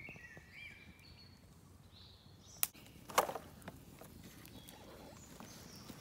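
Faint songbird calls, short gliding whistled notes, during the first couple of seconds. About halfway through comes a sharp click, then a brief cluster of crackling snaps.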